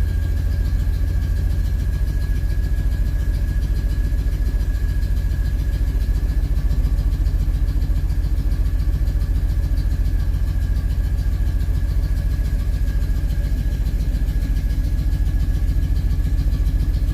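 1968 Oldsmobile 442's V8 engine idling steadily, with a faint steady whine above the low rumble.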